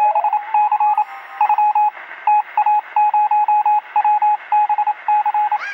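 Rapid electronic beeping: a pair of tones pulsing together in short, irregular bursts, with a thin, telephone-like sound. A rising sweep tone plays at the start and another near the end.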